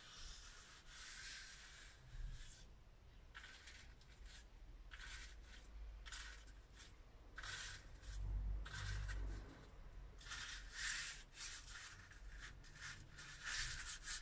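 Home-made leaf brushes, bunches of plant leaves tied to stems, dabbed and swept across paper with ink: a run of short, faint scratchy swishes, with a soft low bump about eight seconds in.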